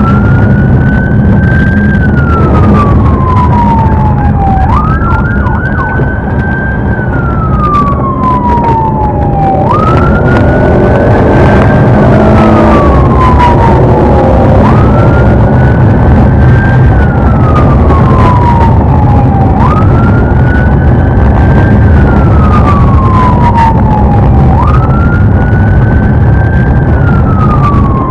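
Police car siren on its wail setting, each cycle rising quickly and then falling slowly over about five seconds, over steady engine and road noise from the pursuing patrol car.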